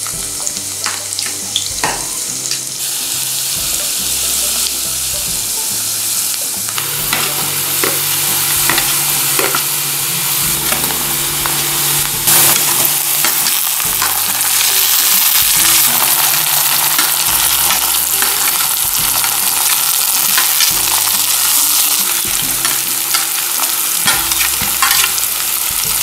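Chopped onion and green chilli sizzling and crackling in hot oil in a kadai, with a spoon stirring them in the pan. The sizzle grows louder a few seconds in and then holds steady.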